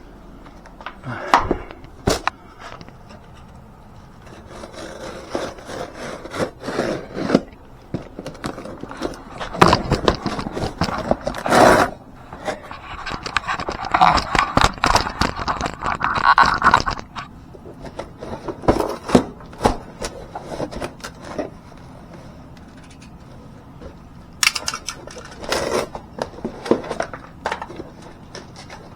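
Hand work on a car's front suspension: irregular scraping and rubbing with scattered sharp clicks and knocks of metal tools and parts, busiest in the middle and again near the end.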